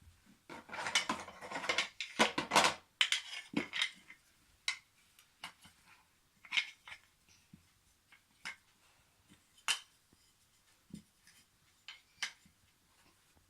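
Wooden toy train track pieces being handled and fitted together. A dense run of rattling and clacking comes in the first few seconds, then scattered single knocks and clicks.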